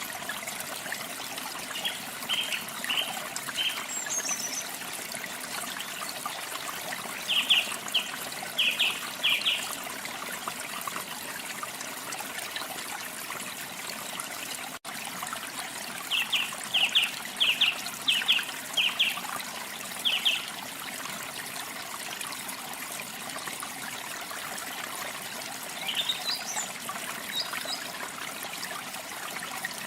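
A steady rush of falling water from a waterfall, with a songbird singing over it in three bouts of quick, sharp, repeated notes. A few fainter bird calls come near the end, and the water sound cuts out for an instant near the middle.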